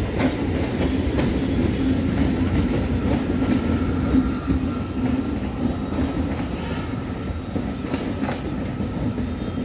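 Coaches of a departing local passenger train rolling past close by: a steady rumble with wheels clicking over rail joints, growing a little quieter near the end as the last coach goes by.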